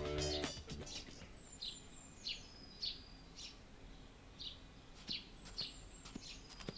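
Birds chirping: short high chirps repeating every half second or so, with a few thin whistled notes between them, over a faint background hiss.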